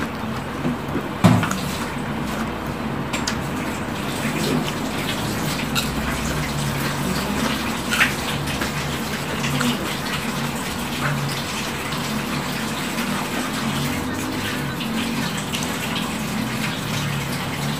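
Close-up eating sounds: chewing and crunching of crispy beef-skin crackers (krupuk rambak) and food, with sharper crunches about a second in and again near the middle, over a steady hiss.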